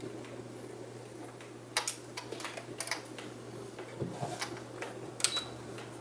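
Scattered light clicks and taps of small objects being handled, a few with a short high ping, over a steady low hum.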